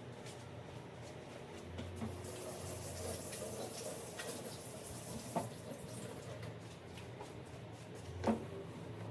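Water running from a tap into a sink for a few seconds, then stopping, with a couple of short knocks of things set down.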